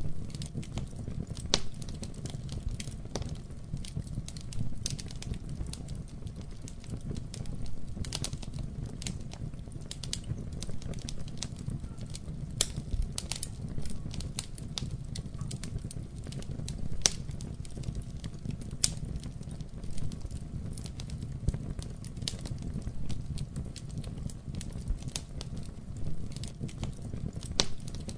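Wood fire burning in a fireplace, with a steady low rumble of flames and frequent irregular sharp crackles and pops throughout.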